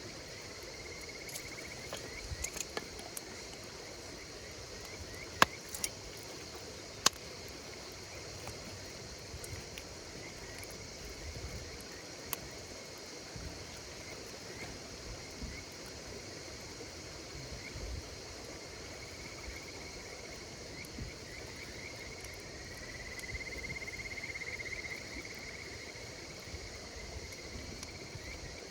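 Insects chirping in a steady night chorus, with cricket-like chirps and a louder trill swelling about 23 seconds in. A campfire crackles underneath, with two sharp pops about five and seven seconds in.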